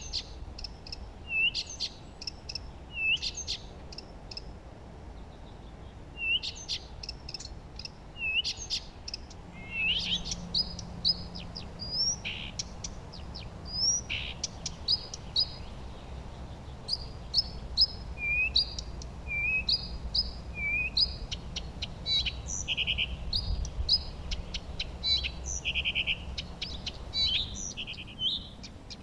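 Several songbirds singing and calling together: many short chirps and whistled notes, some sweeping up or down, with a rapid trill about two-thirds of the way through.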